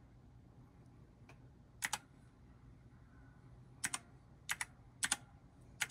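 Computer keyboard typed on slowly: about eight separate sharp key clicks at irregular intervals, some in quick pairs, over a faint low hum.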